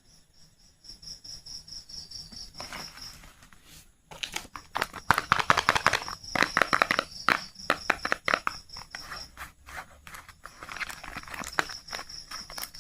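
Soap wrapper being crinkled and torn open by hand. The rustling is light at first and grows dense and crackly after about four seconds, over a faint steady insect-like trill that pulses high in the background.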